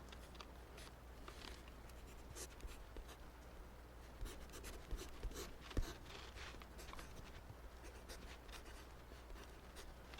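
Writing by hand on paper: short, irregular scratching strokes of a writing tool as math working is written out, close to the microphone. There is a sharper tap about six seconds in.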